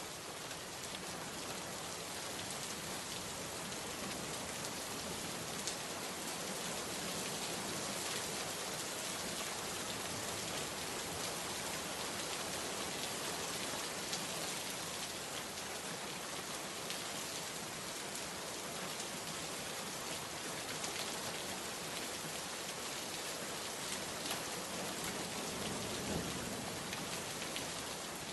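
Steady heavy rain falling on surfaces, a dense even hiss with many small drop ticks.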